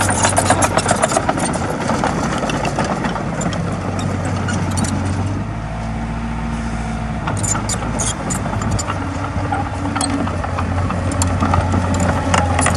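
Komatsu D20A bulldozer's diesel engine running steadily with a low hum, with a rapid clatter of clicks and knocks that eases off in the middle and comes back after about seven seconds.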